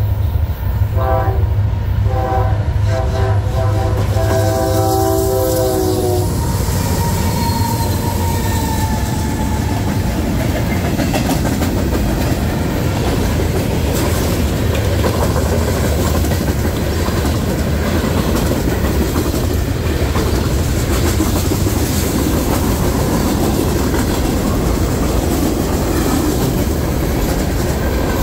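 Freight train led by an EMD SD60 locomotive: its multi-chime air horn sounds in a few short blasts and then a longer one, ending about six seconds in. After that the cars roll past with steady wheel rumble and clickety-clack over the rail joints.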